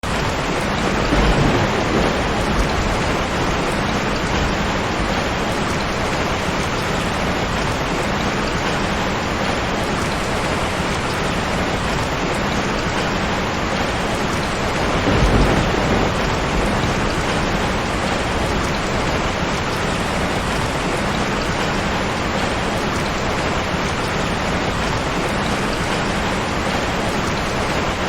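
Steady heavy rain, with low rumbles of thunder twice: about a second in and again about halfway through.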